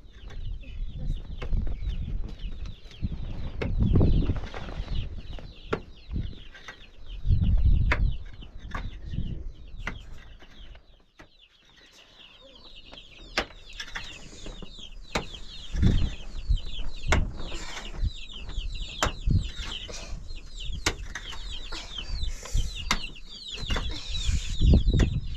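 Birds chirping: many quick, high, falling calls, thickest in the second half, over scattered clicks and several low thuds.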